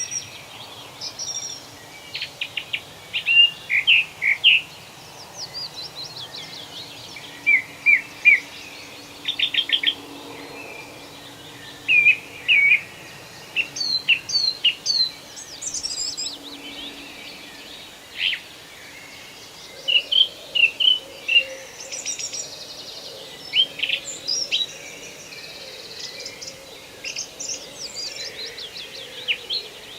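Several songbirds chirping and singing in a forest, in short trills and calls that come every second or two, over a faint steady background noise.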